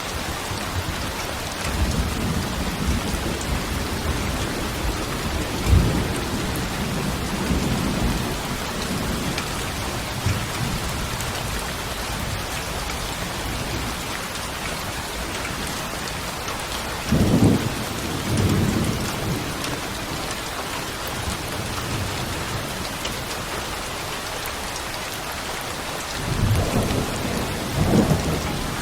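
Steady rain pouring on a surface, with low rolls of thunder rumbling up several times, the loudest about two-thirds of the way through and again near the end.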